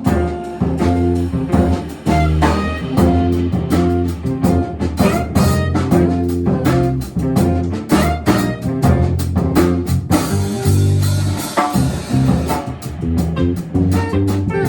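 A jazz quartet playing live: guitar over a walking bass line and a drum kit with cymbals, in a swinging, bluesy groove.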